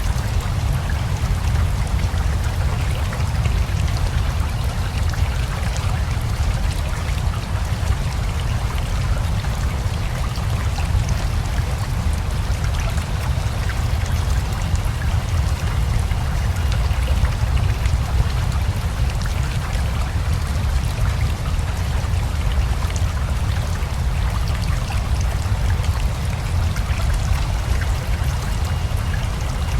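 Steady rain falling over a flowing river: an even hiss of drops above a strong, constant low rumble of running water.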